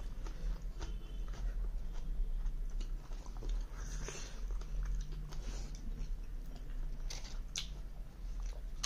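Close-miked chewing and wet mouth sounds of a man eating rice and chicken curry by hand, with small irregular clicks, over a steady low hum.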